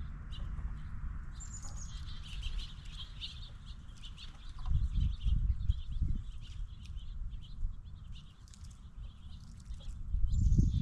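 A bird calling near a feeder: a high falling note, then a few seconds of rapid chattering, the same again near the end. Low thumps and knocks from animals moving on the feeding table close to the microphone.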